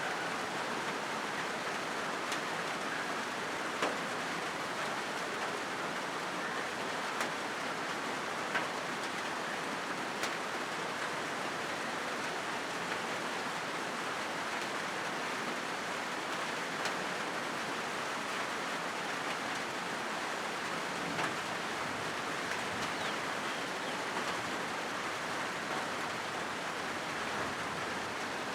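Steady rain falling on a corrugated zinc (galvanized iron) roof: an even hiss with occasional sharper ticks scattered through it.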